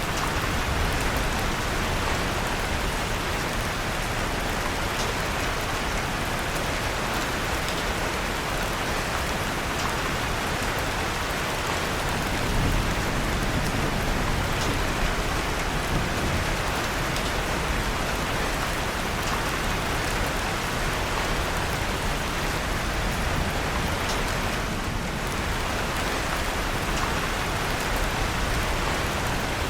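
Steady rain falling, mixed with occasional faint crackles of a wood fire in a fireplace.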